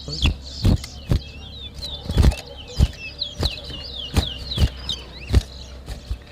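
Caged towa-towa finches singing short, high chirping notes, with about ten sharp knocks at irregular intervals from the birds hopping and fluttering in their cages.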